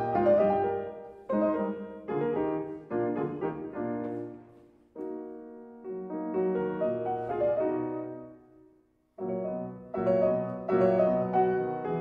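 Background piano music: a slow piece of struck notes and chords that ring and fade, with a short pause about nine seconds in.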